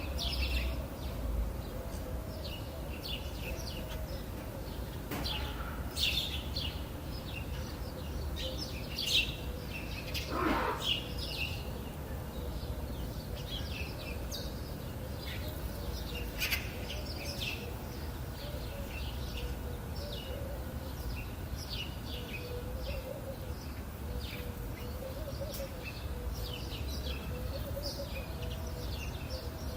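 Birds chirping with many short, high calls scattered throughout, over a steady low background hum. One longer call falls in pitch about ten seconds in.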